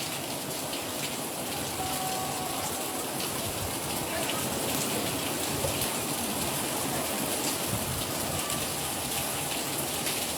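Steady rain falling, an even hiss with scattered ticks of drops hitting surfaces.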